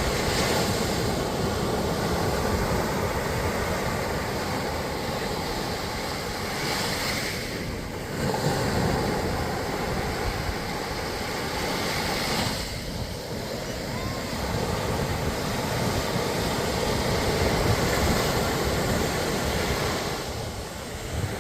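Sea surf breaking and washing up a sandy beach, a steady rush of noise that swells and ebbs with each wave.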